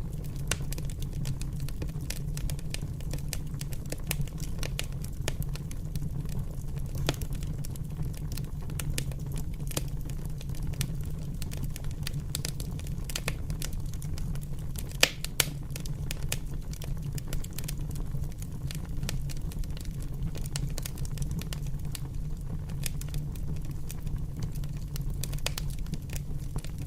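Wood fire crackling with many small irregular pops over a steady low rumble, with two sharper pops about fifteen seconds in.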